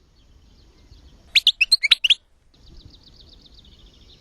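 European goldfinch song: a quick burst of sharp, loud chirps about a second in, followed by a faint rapid trill that falls slightly in pitch.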